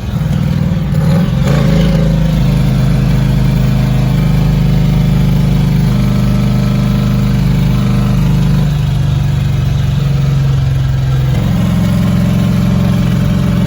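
Turbocharged 5.3 LS V8 run hard at high, held revs, the note rising about a second in, dipping about two-thirds through and climbing again near the end. The engine has been knocking heavily, the sign of a failing bottom end that soon puts a rod through the block.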